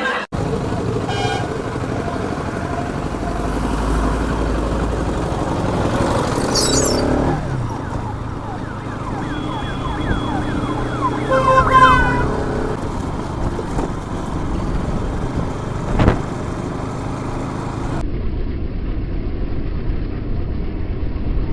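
Bajaj Pulsar RS200 motorcycle riding through traffic: steady engine and road noise. Siren-like rising tones from other traffic come in around the middle, and the sound turns duller and muffled near the end.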